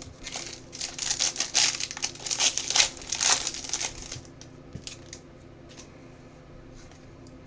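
Crinkling and rustling of a trading-card pack wrapper being handled, dense and crackly for about four seconds, then only a few light ticks.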